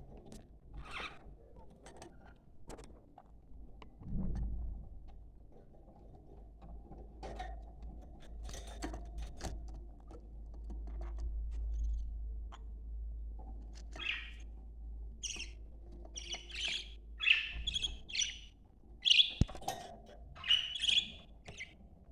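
Budgerigars chirping and chattering: scattered faint chirps at first, then a busy run of loud, sharp chirps in the second half.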